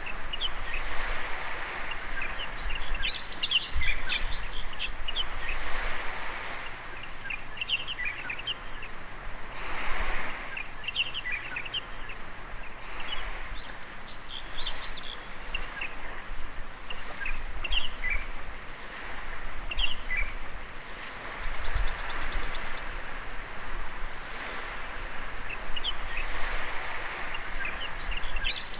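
Small waves washing onto a beach, the hiss swelling and falling every few seconds, with many birds chirping and twittering throughout.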